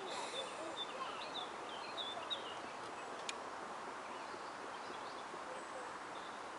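Birds chirping in the trees, a quick string of short calls in the first couple of seconds, over a steady faint outdoor hiss. A single sharp click comes about three seconds in.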